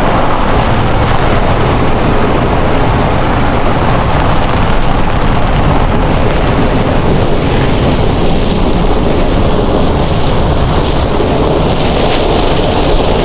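Ram 1500 pickup driving on a snow-covered road: a loud, steady rumble of engine and tyre noise.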